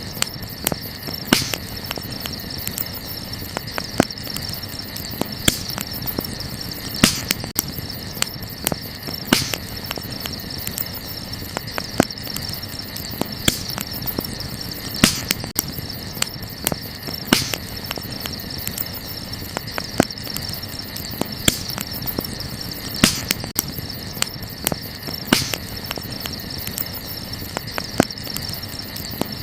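Wood campfire crackling, with sharp pops every second or two. Underneath runs a steady, high-pitched chorus of crickets.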